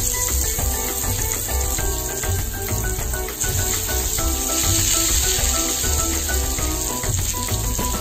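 Long brinjal slices sizzling as they fry in hot oil in a pan, a steady hiss, under background music with a steady beat.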